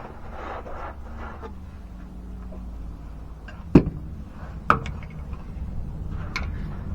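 A steady low rumble with two sharp knocks, about four and five seconds in, and a fainter click near the end.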